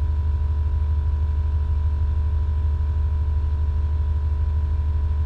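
Steady low hum of a car's engine idling, with a faint constant high tone above it and no change in level.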